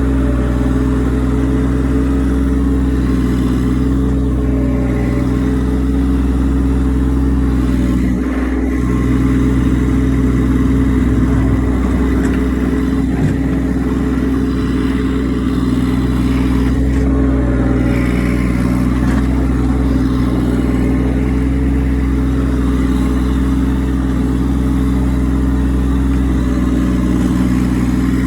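Massey Ferguson tractor engine running steadily under work, its note holding even with only slight changes in load.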